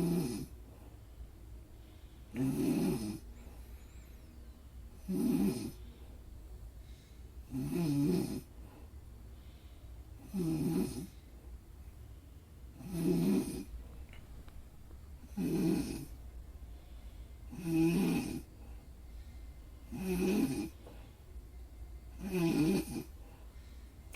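Steady, rhythmic snoring: one snore about every two and a half seconds, about ten in all, each just under a second long, over a faint low hum.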